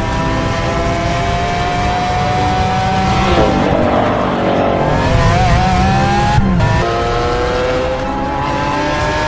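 Lamborghini Aventador SV's V12 engine under hard acceleration, its note climbing steadily through a gear. Around four seconds in the pitch drops and wavers as the car slows for a corner, then it climbs again after a break about six and a half seconds in.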